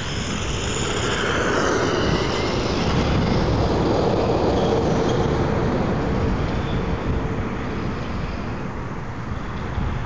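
Electric motor and drivetrain of a 1/18-scale Turnigy RC stadium truck on a 3S LiPo whining at speed, its pitch sliding as it speeds up and slows, over a low rumble of wind on the microphone.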